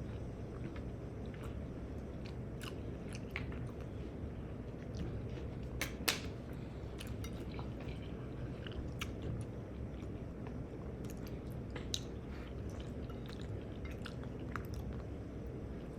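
A person chewing and biting food close to the microphone, with many short scattered mouth clicks and one sharper click about six seconds in.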